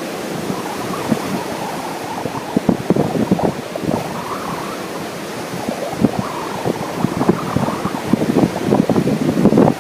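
Strong wind buffeting the microphone in irregular gusts, over a steady wash of ocean surf.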